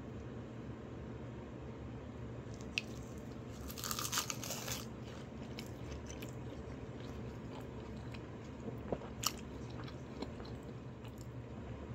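A person biting into and chewing a mouthful of stir-fried rice wrapped in roasted seaweed, with a burst of crisp crunching about four seconds in and a few sharp clicks near nine seconds, over a steady low hum.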